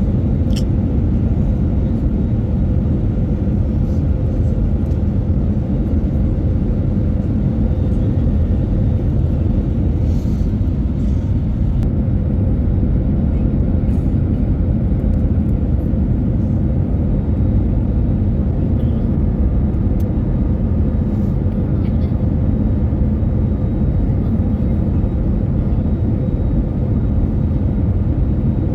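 Steady low engine rumble of a running vehicle, with a faint steady hum.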